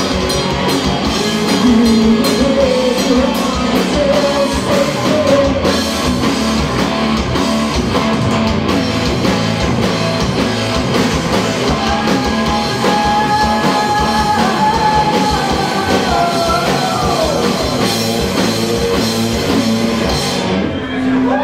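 Live rock band playing with sung vocals, electric guitar and drum kit, cutting off suddenly about a second before the end.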